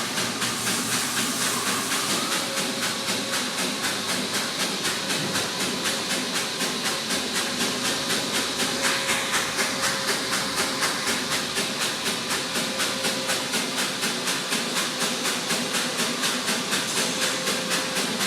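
Automatic car wash running, heard from inside the car: a steady hiss of spray or air with an even pulsing, about three or four beats a second.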